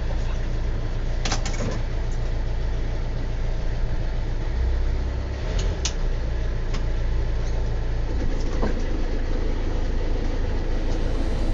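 Hire cruiser's engine running steadily at low speed, a constant low hum, with a few brief clicks or knocks about a second, six seconds and nine seconds in.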